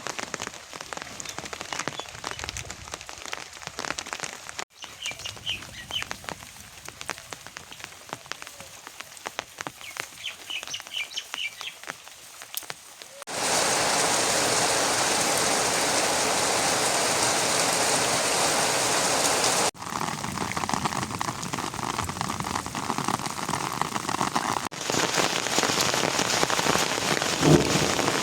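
Rain falling, first as lighter rain with scattered drips and two brief bird chirps, then, after about thirteen seconds, as a louder, steady downpour; the sound changes abruptly several times between stretches of rain.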